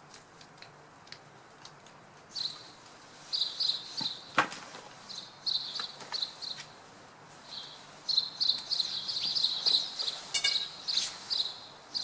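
Small perched birds chirping in short, high, repeated notes, in bouts that grow busier in the second half. A single sharp click comes a little over four seconds in.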